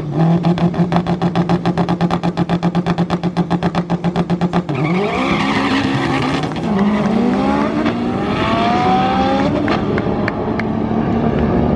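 Drag race car held on a two-step launch limiter, its engine note chopped into rapid pops about eight times a second. After about four and a half seconds it launches, and the engine climbs in pitch through the gears, shifting and rising again as it pulls away down the strip.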